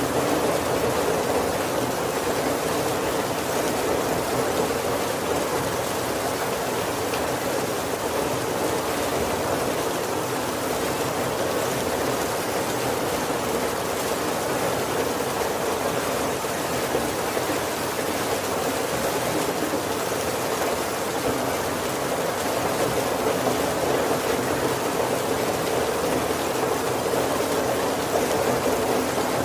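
Heavy rain falling steadily on a roof: an even, unbroken rush with no separate drops standing out.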